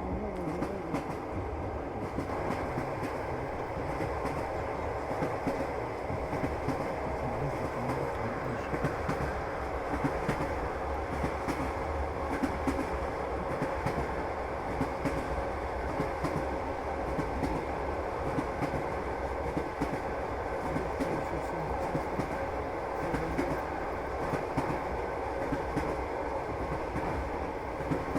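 Passenger train wheels clattering over the rails, a steady rolling rumble with a continuous run of clicks from the rail joints, heard from aboard the moving train.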